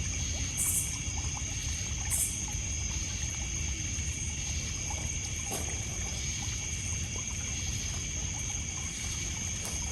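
Outdoor night ambience: small water waves splashing on a pebble beach, over a steady high chorus of crickets and other insects. A wood fire crackles with small pops and brief hisses, two of them in the first couple of seconds.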